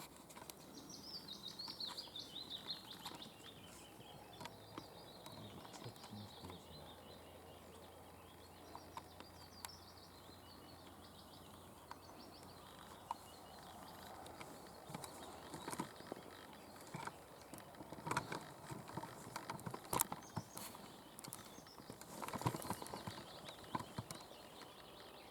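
Faint songbird song: a run of high notes falling in pitch over the first few seconds, with a few more faint notes later. Scattered clicks and rustles, more of them in the second half.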